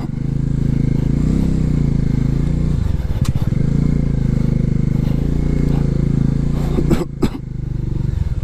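Motorcycle engine running at low speed through deep mud, its revs rising and falling as the rider works the throttle. A few sharp knocks come through, a couple of them near the end, as the engine briefly eases off.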